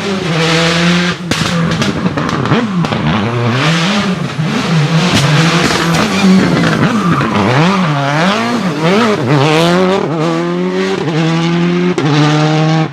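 Citroën Xsara WRC rally car's turbocharged four-cylinder engine revving hard, its pitch climbing and dropping quickly through gear changes and lifts, with sharp pops and cracks from the exhaust now and then.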